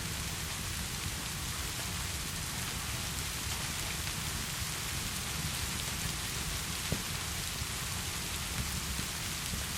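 Steady heavy rain with a low rumble underneath, and a few faint sharp pops, the clearest about seven seconds in.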